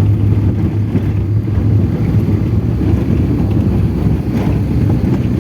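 Trail motorcycle engine running at a steady pace while riding, under a heavy rumble of wind on the microphone.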